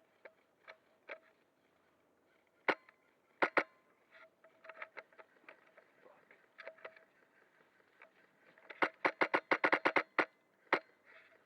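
Sharp cracks of airsoft gunfire: a single shot, then a quick pair, then a rapid string of about ten shots near the end.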